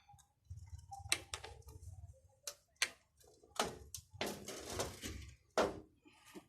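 Irregular clicks, knocks and scraping of metal and plastic parts being handled during a pump motor repair, with a longer stretch of scraping about two thirds of the way in.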